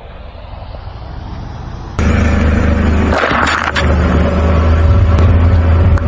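Car engine and tyre noise growing louder over about two seconds, then a sudden jump to a much louder, close engine running steadily with a low hum.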